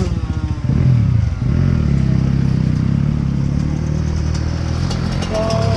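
Off-road motorcycle engine running, its pitch wavering up and down as the throttle varies.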